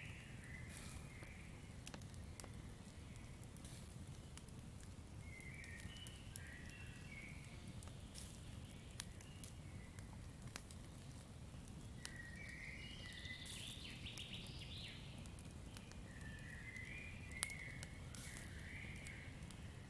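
Campfire crackling with scattered sharp pops, one louder pop late on, over a low steady rumble. A bird calls four times in short warbling phrases a few seconds apart.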